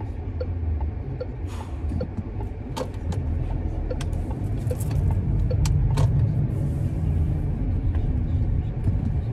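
Car engine idling and then pulling away, heard inside the cabin; the low rumble grows louder about halfway through as the car moves off. A turn signal ticks steadily about one and a half times a second, with a few sharp clicks from the cabin.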